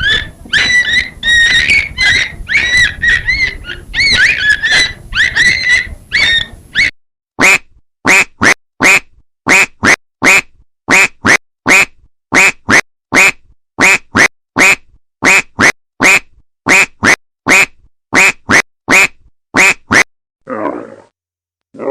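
Animal calls: a jumble of overlapping short pitched calls for about seven seconds, then a long run of short calls repeated about twice a second, ending with a lower, rougher call near the end.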